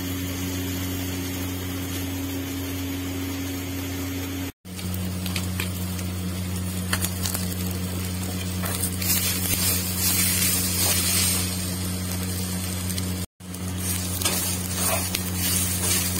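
Sliced onion, dry coconut and garlic sizzling in oil in a black kadhai, being roasted for a masala paste. A steel ladle clicks and scrapes against the pan as they are stirred. The sizzle is louder in the middle, a steady low hum runs underneath, and the sound cuts out briefly twice.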